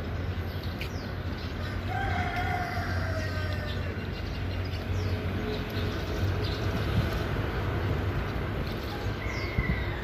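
Outdoor ambience: a steady low hum with faint bird chirps, and a longer drawn call from a distant bird about two seconds in.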